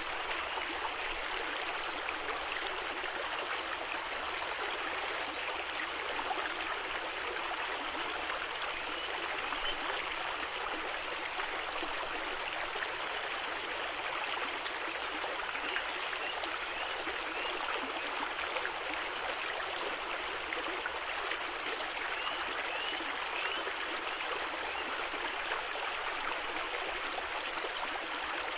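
Creek water running, a steady, even rush with no breaks.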